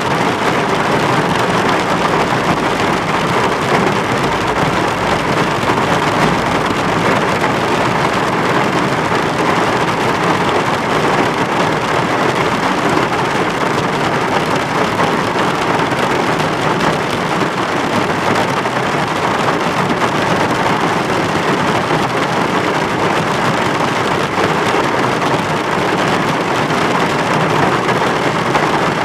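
Heavy precipitation from a storm pelting down in a steady, dense hiss, with no let-up.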